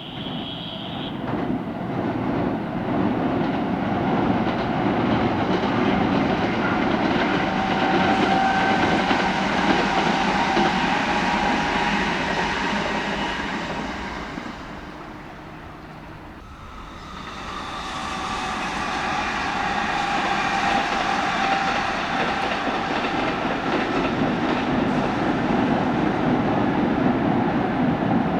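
Kintetsu electric train running past, a loud rush of wheels on rail with steady whining motor tones. It fades about halfway through, and a second loud passing builds right after.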